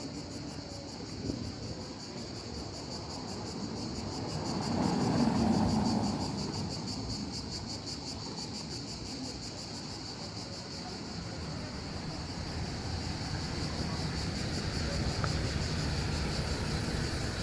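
Insects chirring steadily in a high, fast-pulsing drone throughout. A low rushing swell rises and fades around five seconds in.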